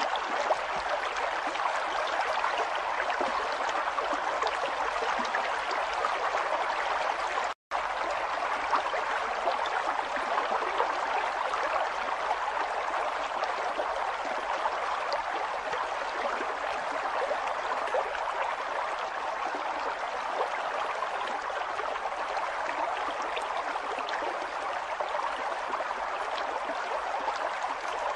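River water flowing steadily: a continuous rushing, gurgling noise that breaks off into a split second of silence about seven and a half seconds in.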